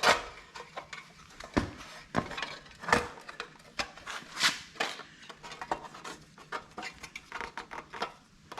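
Irregular metallic clinks and clanks of hand tools and small engine parts being handled and knocked together, with brief ringing after some strikes.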